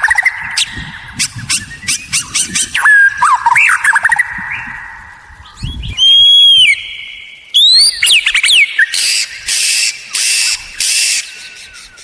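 White-rumped shama singing a loud, varied song: quick sharp clicks and whistles gliding up and down, one long clear whistle about six seconds in, and a run of harsh rasping notes near the end.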